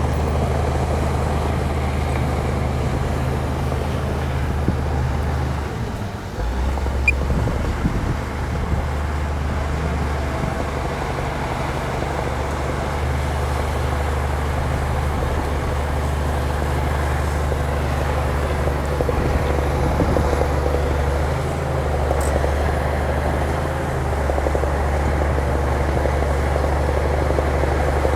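Heavy earthmoving machine's diesel engine running steadily under work, with a brief drop in the engine note about six seconds in and a few light knocks just after.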